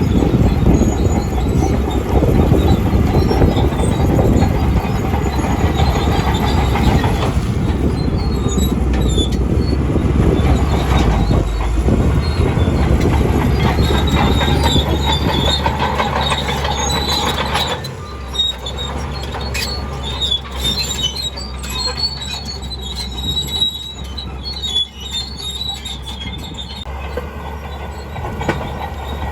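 Crawler bulldozer running, its engine rumbling with the steel tracks squealing and clanking. The sound eases off somewhat about two-thirds of the way through.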